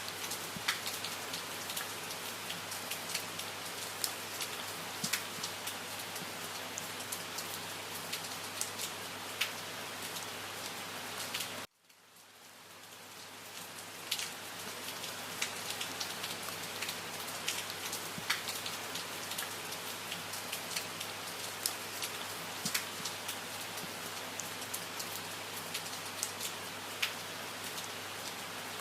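Steady rainfall with many individual drops tapping sharply. About twelve seconds in, it cuts out abruptly and fades back up over a couple of seconds, as at a loop joint in the recording.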